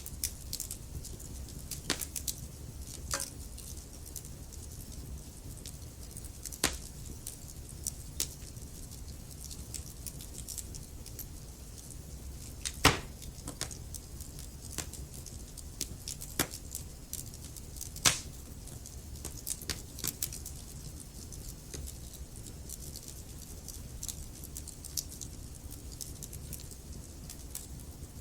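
Burning logs in a fireplace crackling, with irregular sharp pops and snaps, two louder pops about midway and two-thirds of the way through, over a low steady rumble.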